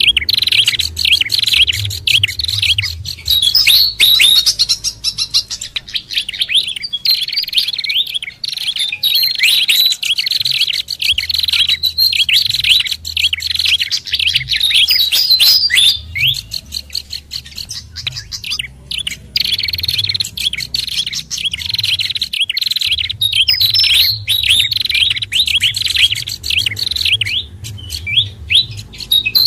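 Bird-lure recording of small songbirds, mixing sikatan kipas (pied fantail), pelanduk bukit and prenjak kepala merah. It is a dense, continuous stream of rapid high chirps and short twittering calls that overlap without pause.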